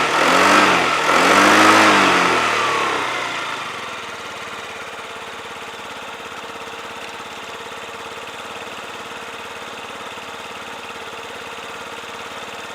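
Yamaha Vino 50cc scooter engine, blipped twice in the first two seconds and then dropping back to a steady, even idle. The owner calls the engine in good condition.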